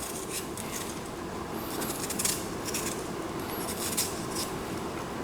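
Knife peeling a piece of yam: irregular short scraping strokes of the blade against the skin, over a steady hiss.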